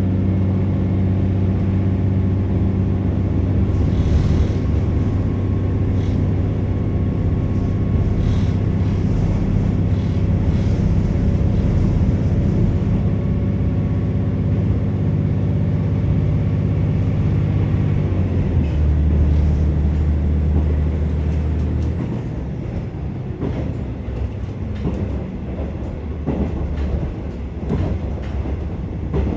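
Diesel engine of a KiHa 47 railcar running steadily under power, heard from inside the passenger car. Its note drops about 18 seconds in, and a few seconds later the engine falls back, leaving the quieter rumble of the wheels with clicks over rail joints.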